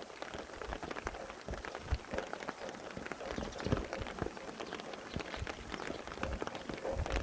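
Steady rain, many separate drops ticking irregularly, with a few louder drops now and then.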